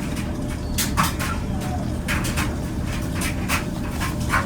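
Clothes dryer running with a steady low rumble, with a few short clicks and rustles scattered over it.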